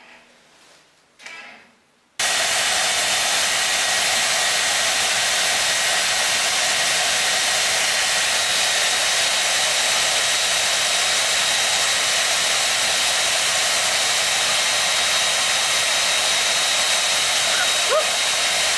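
A loud, steady rushing noise from an electric fan or blower, switching on abruptly about two seconds in. A few short, faint squeaks come near the end.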